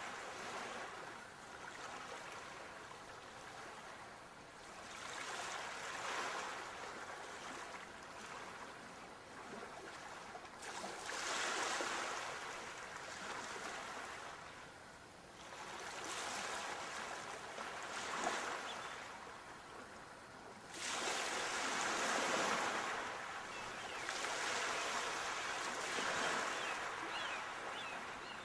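Sea waves breaking on the shore, each surge swelling and washing back out every few seconds. A few faint high chirps come in near the end.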